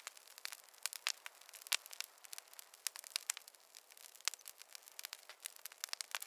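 Campfire crackling: burning wood snapping and popping in many irregular sharp clicks, several louder snaps among them.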